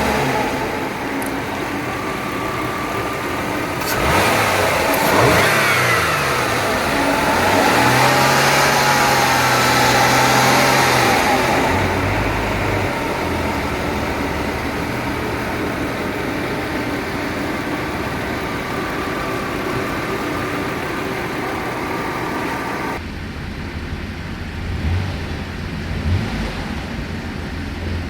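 2001 Jaguar X-Type's 3.0-litre AJ30 V6 petrol engine running just after starting: idling, revved up about four seconds in and held at higher revs until about eleven seconds, then settling back to a steady idle. It becomes quieter about 23 seconds in, with two short rises in revs near the end.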